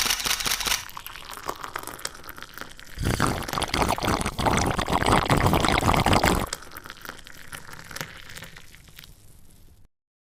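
Sand scraping, crunching and pouring as toy vehicles dig in it, a gritty, crackling noise that is loudest from about three to six and a half seconds in.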